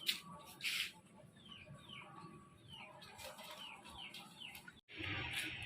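Chickens calling: a couple of short loud calls at the start, then a run of short, falling peeps, about three a second. Near the end the sound cuts out abruptly and music starts.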